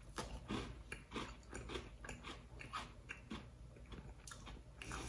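A person biting into a crisp strawberry cookie and chewing it, with a crunch about twice a second.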